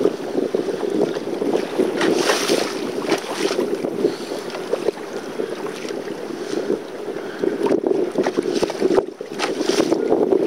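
Wind buffeting the microphone, with choppy water slapping against a kayak's hull in a steady, gusting rush that surges briefly about two seconds in and again near the end.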